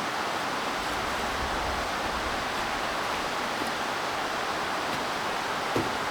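Steady, unbroken rushing of water, even in level throughout, with one short knock near the end.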